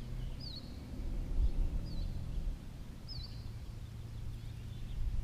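A bird calling a short, high chirp three times, over a steady low hum.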